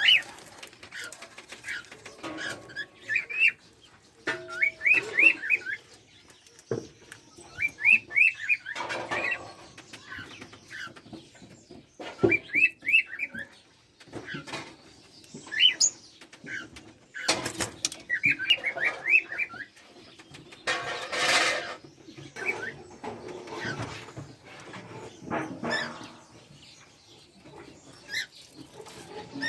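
Caged parrots chirping in quick strings of five to eight high notes that repeat every few seconds, with wing flaps and rustling in between and a longer flurry about two-thirds of the way through.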